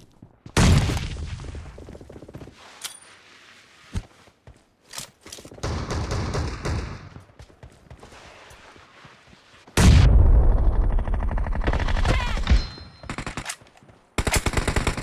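Video game gunfire: a sharp shot with a trailing tail, scattered single shots, then a long loud burst of automatic fire about ten seconds in. Rapid, evenly spaced automatic fire starts again near the end.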